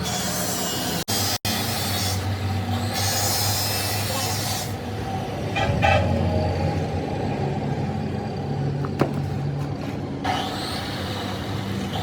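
A heavy engine running steadily at a low, even pitch, with a louder patch about halfway through and a sharp click near the end.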